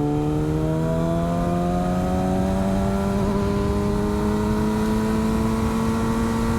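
Motorcycle engine pulling steadily in one gear, its pitch rising slowly and evenly as the bike accelerates out of a corner.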